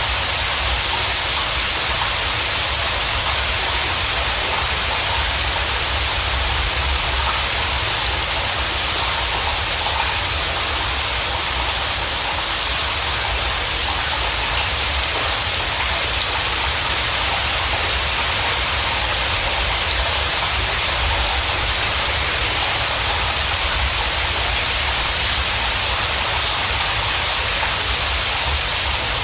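Steady rain falling on a surface, an even hiss with no breaks or changes.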